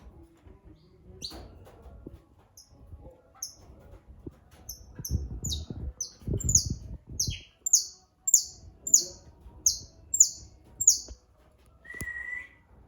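Songbird singing a run of about a dozen short, high, falling notes, spaced about half a second apart and growing louder, followed near the end by one lower whistled note.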